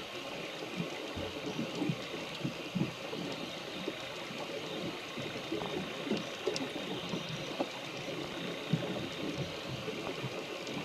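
Rain falling, with many irregular drops pattering over a steady hiss.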